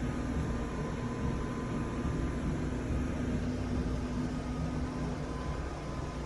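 3D printer running while printing a large dashboard part: a steady whirring hum of its fans and motors with a low, even tone.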